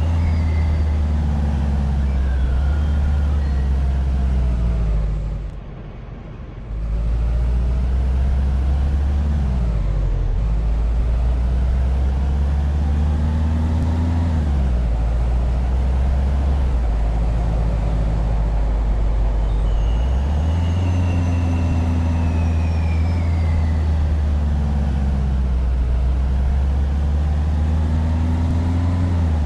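A vehicle's engine or motor runs under a heavy low rumble, its pitch rising and falling again and again as it speeds up and slows down. The sound drops out briefly about six seconds in, and two falling high whines come near the end.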